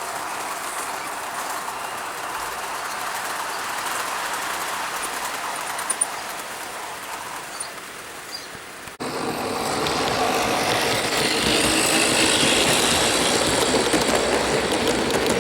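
O gauge model train running on outdoor garden railway track, a steady mechanical running noise. About nine seconds in it cuts abruptly and comes back louder.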